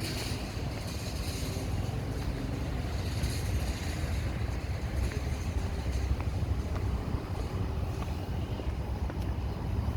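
Street traffic: vehicles passing with a steady low rumble and a tyre hiss that swells near the start and again about three seconds in.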